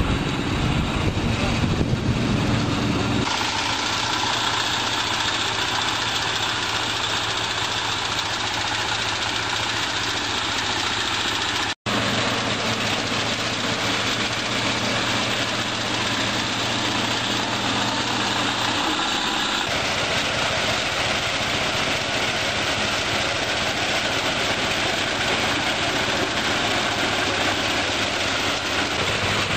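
Rice combine harvester's engine running steadily under load, a continuous machine noise with a low hum. The sound changes abruptly about three seconds in and again near twenty seconds, with a momentary dropout just before twelve seconds.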